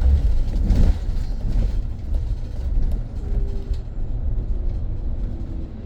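Inside a moving BYD BD11 battery-electric double-decker bus: a steady low rumble of road and body noise, with a brief bump about a second in and a faint, slightly falling whine from the electric drive.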